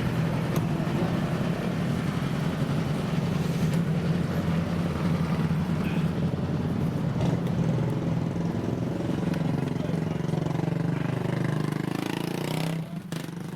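Motorcycle engine running steadily at a low, even speed, with a constant low hum that dips briefly near the end.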